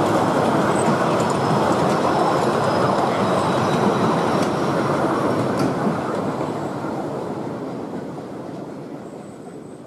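Miniature railway passenger coaches rolling past on the track, their wheels making a steady rolling noise on the rails. The noise fades away over the last few seconds as the train draws off.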